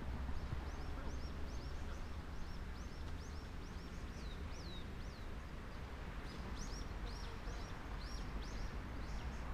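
A small bird calling over and over in short, high chirps that each fall in pitch, about two or three a second, with a short pause midway, over a steady low outdoor rumble.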